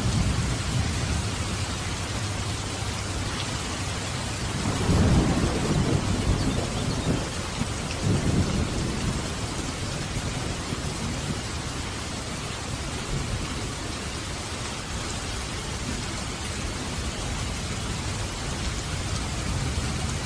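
Steady heavy rain hissing, with rolling thunder rumbling in, loudest about five to seven seconds in with a second swell around eight seconds, then fading back under the rain.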